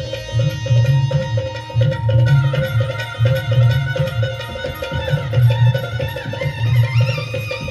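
Marathi folk music: a hand drum keeps a steady beat under a wavering melody line.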